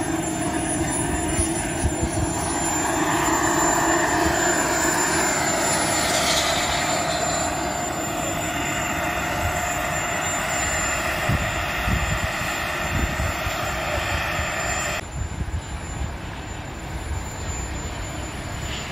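Turbine engine of a large radio-controlled model jet running with a steady high whine, its pitch rising a few seconds in. About three-quarters of the way through the whine cuts off suddenly, leaving a lower rumble.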